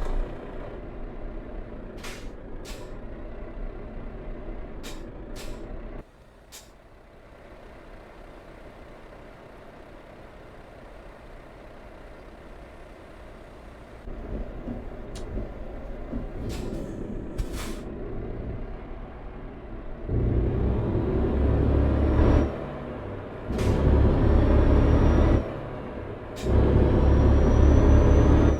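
Heavy truck's diesel engine running at idle, with several short, sharp air-brake hisses. In the last third it is revved hard three times, each burst about two seconds long.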